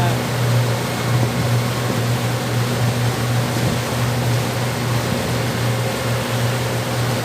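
Passenger boat's engine running steadily under way: a constant low drone over an even hiss.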